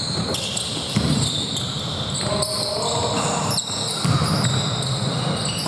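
Basketball game play on a gym court: the ball bouncing, with many short high squeaks of sneakers on the hardwood floor.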